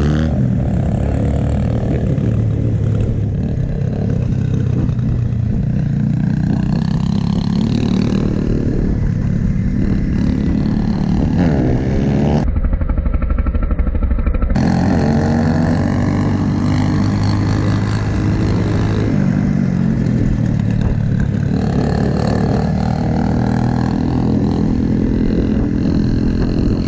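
Small dirt-bike engines running and revving as the bikes are ridden, their pitch rising and falling again and again.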